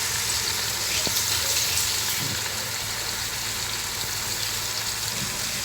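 Masala-marinated chicken pieces sizzling steadily in hot coconut oil in a pan.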